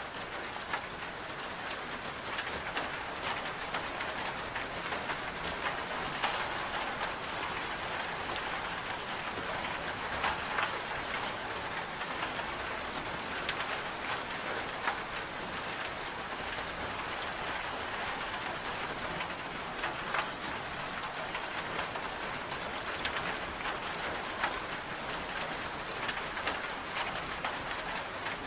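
Steady rain falling, with a constant hiss and many scattered individual drops ticking close by.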